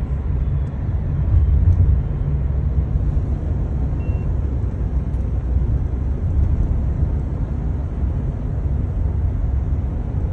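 Steady low rumble of motor traffic with road noise, with no distinct horns or passes standing out.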